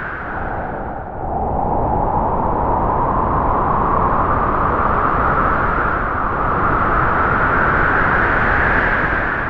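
Strong wind howling through trees in gusts. The howl dips in pitch and level about a second in, then swells and rises slowly as the gust builds.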